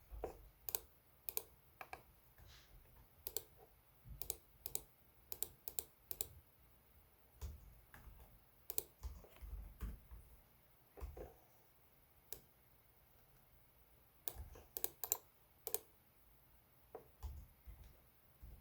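Typing on a Lenovo Legion 5 Pro laptop keyboard: irregular key clicks in short bursts, with pauses of a second or two between them.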